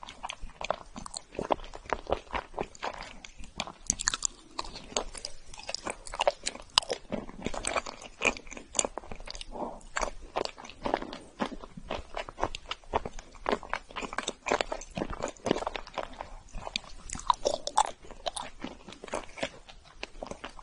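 Close-miked chewing of a crunchy chocolate cookie: biting, then steady crunching and chewing, a dense run of small irregular crackles.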